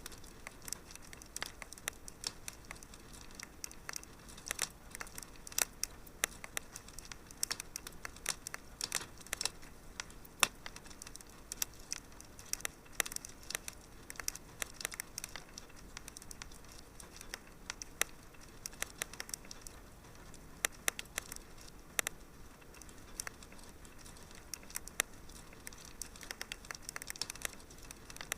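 Wood fire in a fireplace crackling: irregular sharp pops and snaps over a steady low hiss.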